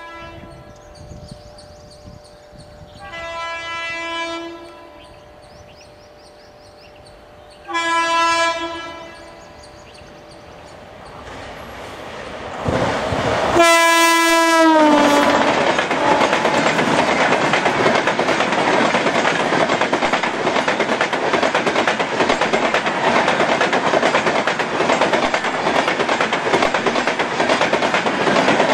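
WAP-7 electric locomotive sounding its two-tone horn three times as it approaches. The third and loudest blast comes as it passes and drops in pitch at the end. After that comes the steady rumble and clatter of the passenger coaches rolling past.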